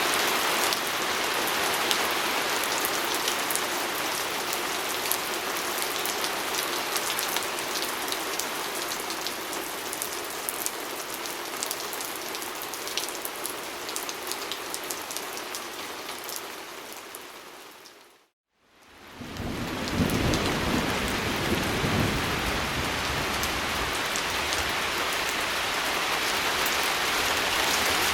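Steady rain pattering on a window pane, with fine ticks of single drops. About two-thirds of the way through it fades briefly to silence and comes back, now with a low rumble underneath.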